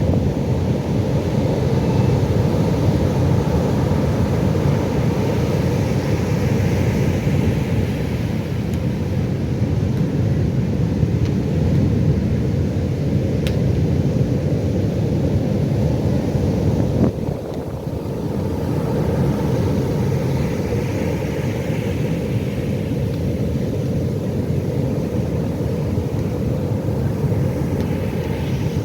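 Ocean surf breaking: a steady low rumble of waves with two softer washes of higher hiss as waves run in, and a brief dip in level about two-thirds through.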